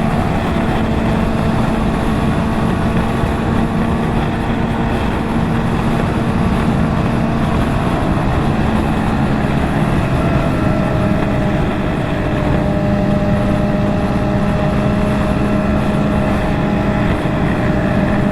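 Motorcycle engine running at a steady cruising speed, its pitch holding constant, under a dense rush of wind and road noise.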